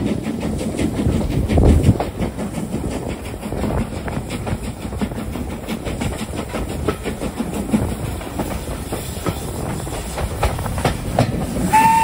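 Steam-hauled passenger train running, heard from an open carriage window: a steady rumble with rapid clicking of the wheels over the track. Right at the end the locomotive's steam whistle starts, one steady tone.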